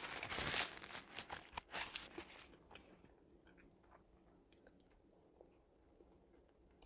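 Close-miked crinkling of a paper napkin and chewing of a burger for about the first two and a half seconds, then near silence with a few faint soft clicks.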